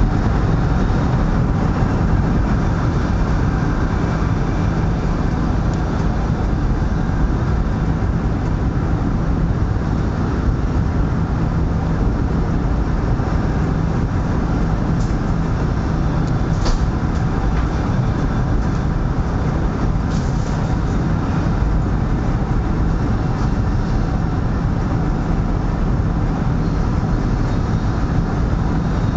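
Steady running noise of a CRH380A high-speed train at speed, a low rumble heard from inside the carriage, with one brief click about seventeen seconds in.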